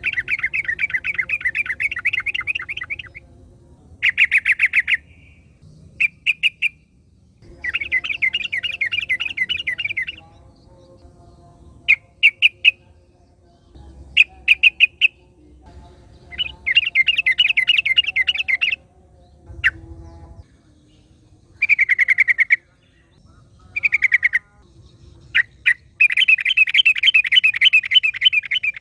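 Yellow-vented bulbul calling: repeated bursts of rapid chattering trills, each two to three seconds long, alternating with short clusters of a few sharp notes.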